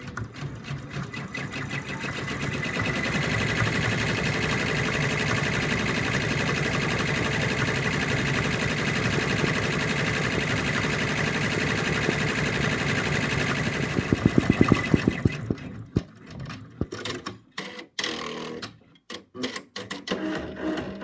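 Embroidery machine stitching out a gold star design: a fast, steady run of needle strokes that picks up over the first couple of seconds and stops about sixteen seconds in, followed by a few scattered clicks.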